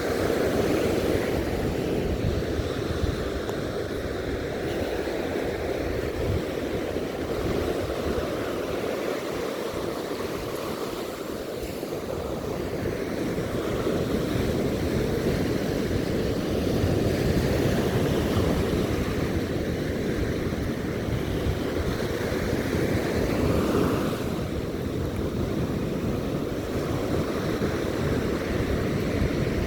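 Ocean surf rushing continuously, swelling and ebbing every few seconds as waves break and wash up the beach.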